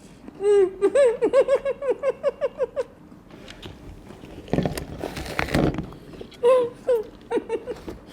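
A woman laughing in a quick run of short "ha" pulses, then a noisy crunching stretch of teeth biting into a raw apple about halfway through, then more laughter near the end.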